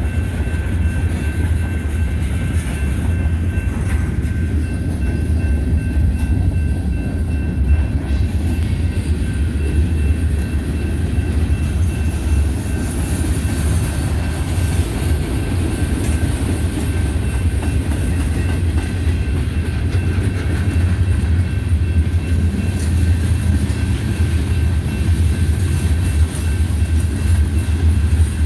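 Manifest freight train's cars rolling past at steady speed: a continuous low rumble of wheels on rail, with faint steady high-pitched tones over it.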